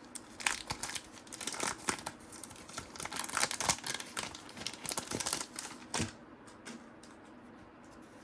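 Crinkling, tearing and rustling of a trading-card pack wrapper and cards being handled: a quick run of short crackly scrapes and snaps that stops about six seconds in.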